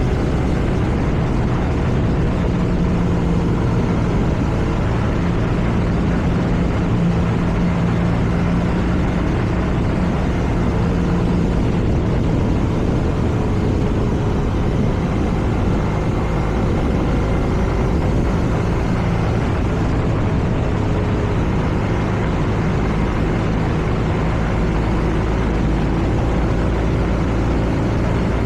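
BMW R nineT's air/oil-cooled boxer twin running under way at a fairly steady cruise, with wind and road noise around it. The engine note shifts a little in pitch now and then rather than revving hard.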